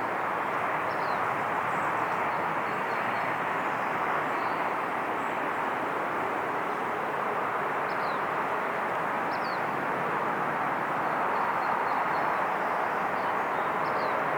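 Jet airliner engines running with a steady, even rumble. A faint whine comes in near the end, and a few short, faint high chirps sound over it.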